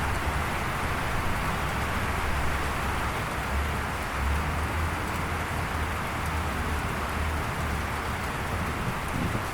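Steady gentle rain falling, an even hiss with a continuous low rumble underneath.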